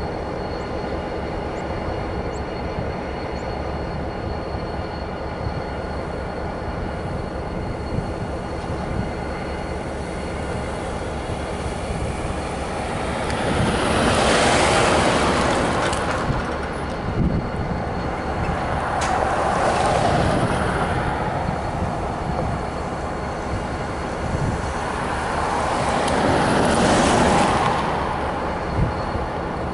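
Diesel freight locomotive idling with a steady hum. Three times the sound swells into a rushing noise lasting a few seconds each, then settles back.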